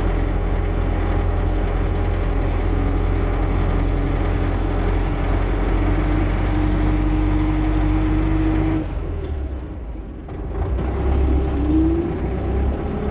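Tractor engine running steadily under way. About two-thirds of the way through, the sound changes abruptly and briefly drops in level, then picks up again with a short rising whine.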